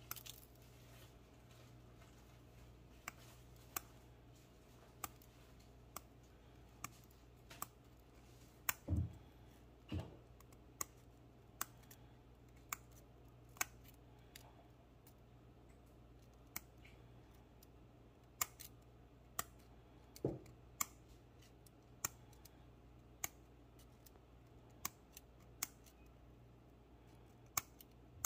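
Scissors snipping through metal wire mesh, each cut wire giving a sharp click, irregularly spaced at roughly one a second. A few duller knocks come in along the way.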